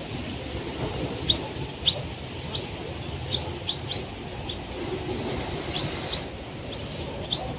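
A bird calling with short, sharp, falling chirps, about a dozen at irregular intervals, over a steady low background rumble.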